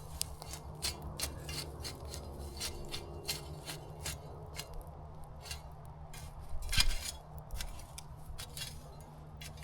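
Wood campfire crackling and popping: irregular sharp snaps several times a second over a low steady rumble, with one louder pop about seven seconds in.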